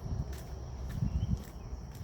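Footsteps on a forest path, a few soft thuds about every half second, over a steady high-pitched drone of grass insects.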